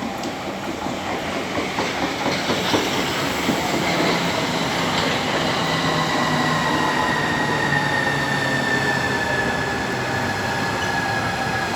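Train running along the platform, growing louder over the first few seconds, with wheels clattering over the rails and a high whine that slowly falls in pitch.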